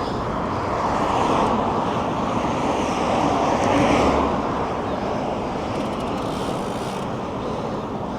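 Steady rushing noise of road traffic mixed with wind on the microphone while riding a bicycle, swelling slightly about one second and four seconds in.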